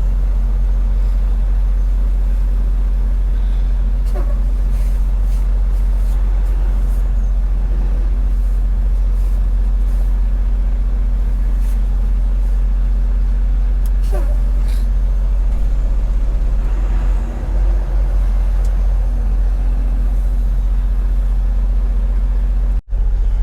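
Semi-truck driving, heard from inside the cab: a steady, deep engine drone with road noise, broken by a short dropout near the end.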